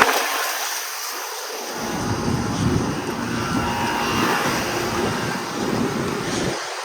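Sure Comfort central air conditioner's outdoor condenser running just after starting up, a steady rushing sound from its fan.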